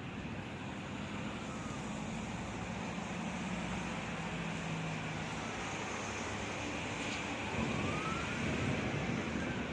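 A distant emergency-vehicle siren wailing, its pitch slowly rising and falling, over a steady hiss of background noise; the wail comes through most clearly near the end.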